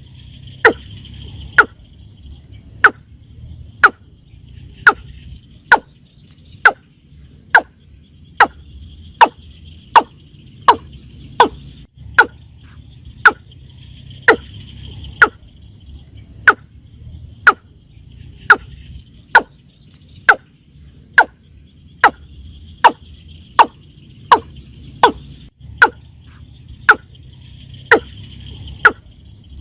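Watercock calling: a loud, short, sharp note repeated at an even pace, a little faster than once a second, on and on without a break.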